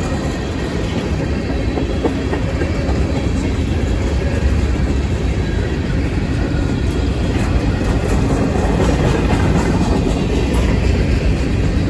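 Freight cars of a long manifest train rolling past at speed: a loud, steady rumble and rattle of steel wheels on the rails.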